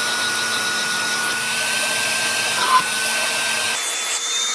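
Carpet and upholstery spot-cleaner vacuum motor running with a steady high whine. About four seconds in, the whine jumps higher and the low hum drops away.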